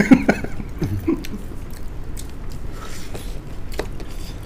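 Close-up eating sounds of people chewing duck meat and rice eaten by hand, with wet mouth noises and scattered small clicks. A brief voiced sound comes at the very start.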